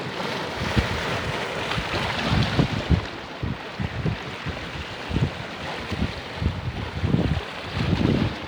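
Sea surf washing on a beach in a steady hiss, with wind buffeting the microphone in irregular low gusts.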